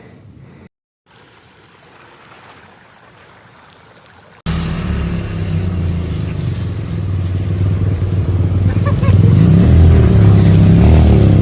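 Faint background for the first few seconds. Then, after an abrupt cut, a trail motorcycle's engine running close by, growing louder, with the revs rising and falling near the end.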